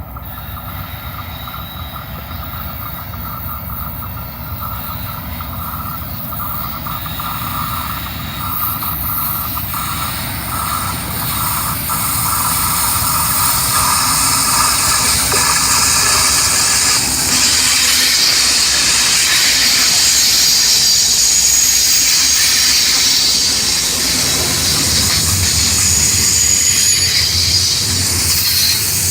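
Union Pacific freight train approaching and running past, growing steadily louder over the first dozen seconds and then staying loud. The rails and wheels give out high-pitched squealing and singing noises throughout.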